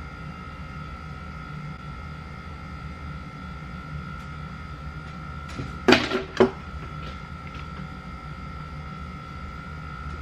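A steady electrical hum with a constant tone, and a brief clatter of two or three knocks about six seconds in, as of small objects being handled and set down.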